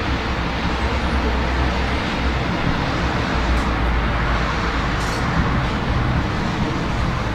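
Steady rain hiss mixed with the low, continuous noise of city traffic.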